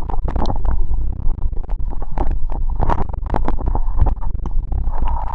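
Rumbling noise on the microphone with many irregular knocks and clicks throughout.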